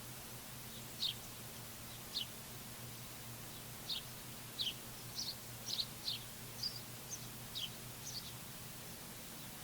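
Small songbird chirping: short, sharp notes that slide downward, about fifteen of them at uneven intervals, thickest around the middle. Underneath runs a steady low hum and hiss.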